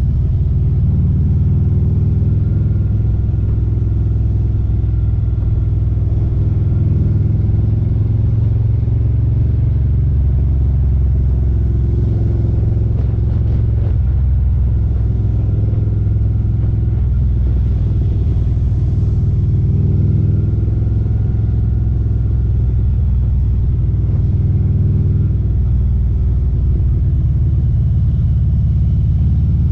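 Harley-Davidson CVO Street Glide's Milwaukee-Eight V-twin running through aftermarket Khrome Werks Aggressor headers and slip-on mufflers, a loud, steady low exhaust note whose pitch drifts slightly up and down.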